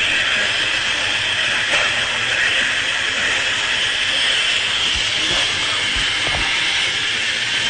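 A pack of radio-controlled stock-class race trucks running around the track, their motors and gears making a steady, high hissing whine.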